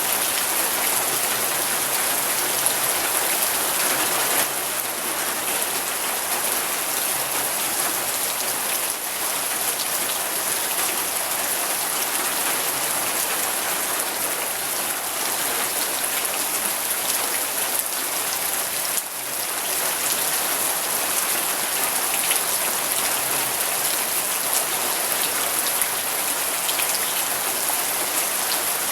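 Steady rain falling, a dense even hiss with individual drop hits scattered through it. It eases slightly for a moment about four seconds in and again near the middle.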